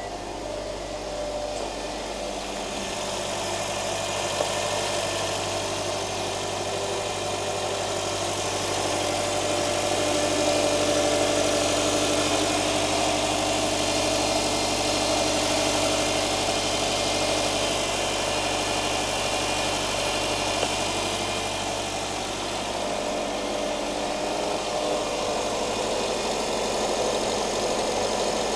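2008 Subaru Forester's flat-four boxer engine idling steadily shortly after a cold start.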